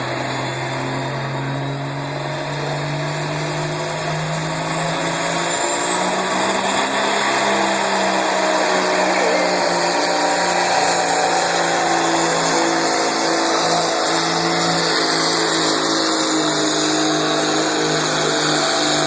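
Pro stock semi truck's Cummins diesel engine working under heavy load as it pulls the sled. Its pitch climbs over the first several seconds, then holds steady and loud.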